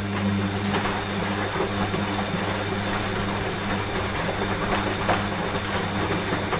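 Washing machine running with a steady low hum, over the hiss of steady rain.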